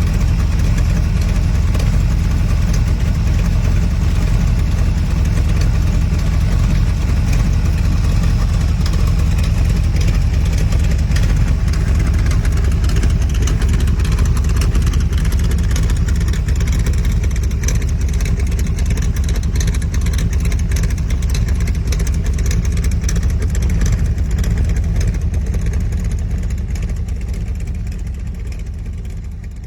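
Hot-rod V8 engine, the T-Bucket's built Ford 302, running steadily with even rapid firing pulses, fading out near the end.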